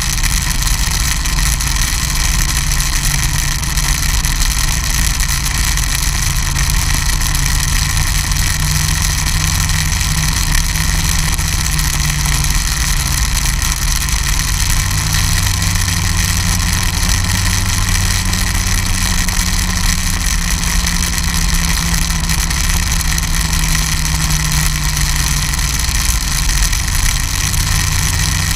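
Snowmobile engine running steadily, its low note dropping slightly about halfway through.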